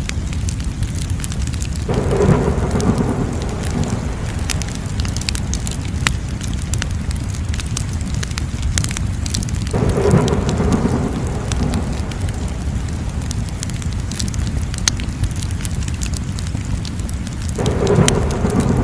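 Crackling wood fire: a steady low rumble with many sharp pops and crackles. Three times a louder rushing swell rises and fades over a couple of seconds.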